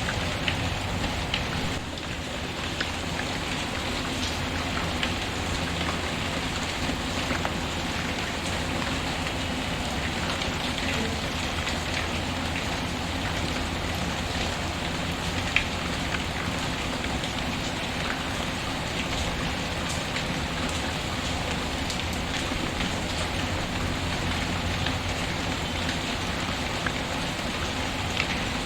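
Steady rain, with a wood fire crackling in small scattered pops; one pop about halfway through is sharper than the rest.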